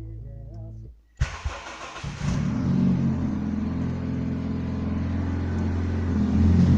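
Bass-heavy music cuts off about a second in; then a car engine cranks and catches, and runs steadily at idle, getting a little louder near the end.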